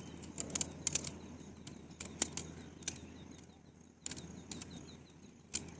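A collapsible tent pole being unfolded, its sections clicking and knocking together in a dozen or so sharp, irregular clicks.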